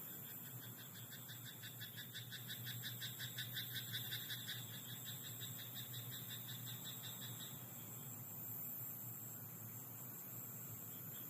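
A frog croaking in a fast, even run of calls, several a second, that swells and then stops about seven and a half seconds in. Underneath is a steady high hiss and a low hum.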